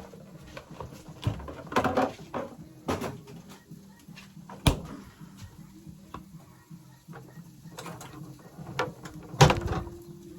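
Scattered knocks and clatter of household things being handled, with a sharp single knock a little under halfway through and a louder clatter near the end.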